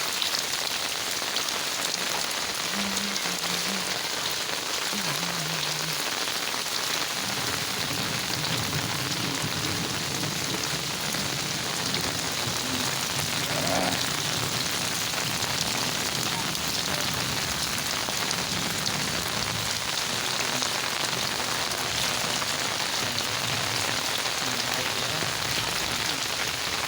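Heavy rain falling steadily, a constant even hiss of rain on the ground.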